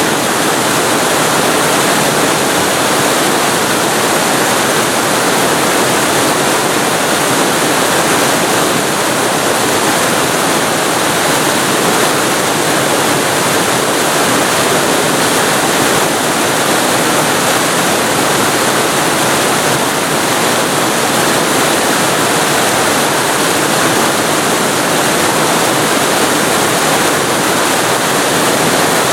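Waterfall recorded very close to the falling water: a loud, steady, dense rush with no breaks.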